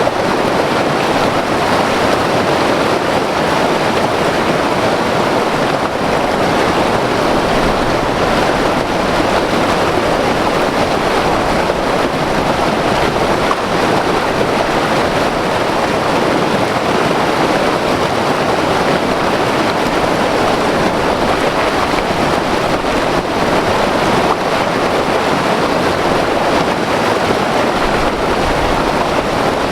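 White water river rushing, a loud steady wash of water.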